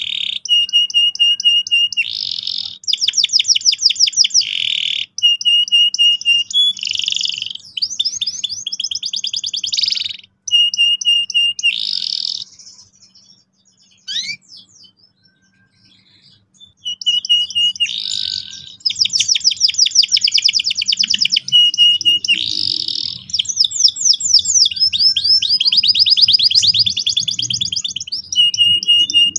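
Domestic canary singing in long phrases of fast rolling trills and repeated whistled notes. It breaks off for a few seconds midway, then starts again.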